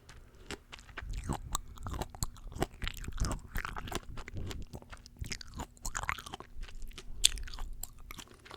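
Chewing and crunching of fresh fruit close to the microphone: a dense run of small, irregular wet crackles, with one sharper crunch about seven seconds in.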